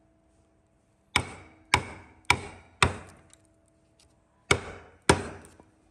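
Six sharp chopping strikes on wood, each dying away quickly with a faint ring. Four come about half a second apart, then after a pause two more.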